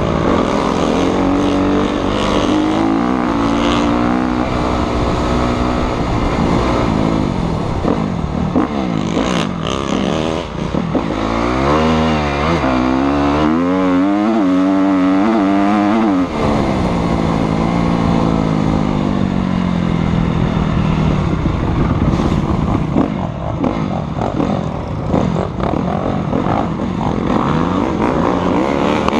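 Motocross dirt bike engine running hard under a rider's throttle, its pitch rising and falling over and over, with the quickest swings about halfway through.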